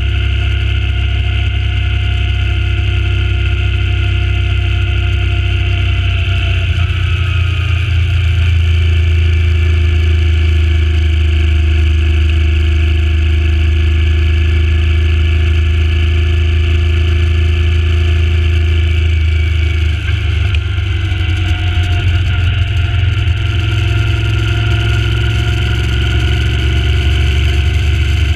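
Suzuki Intruder C800 V-twin motorcycle engine running steadily at cruising speed, its pitch shifting slightly about a quarter of the way in and again about two-thirds through.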